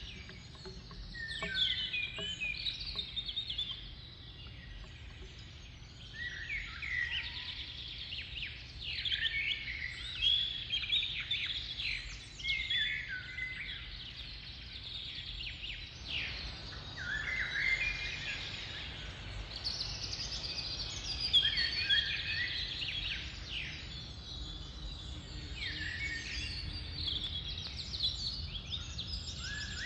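Bird calls: many short chirping, warbling phrases, one after another, over a steady low hum.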